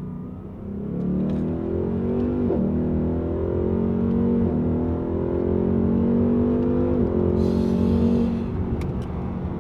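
A car engine, heard from inside the cabin, accelerating hard at full throttle from second gear. Its pitch climbs and drops sharply at three quick upshifts of the ten-speed automatic, then eases off near the end.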